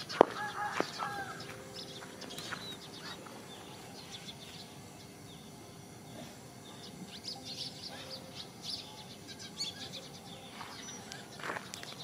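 Birds chirping now and then, with a few short calls and sharp clicks early on and a faint steady hum underneath.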